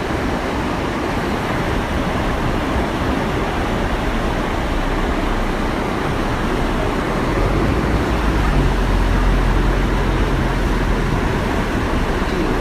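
Waterfall rushing steadily. A low humming rumble swells from about halfway through and fades near the end.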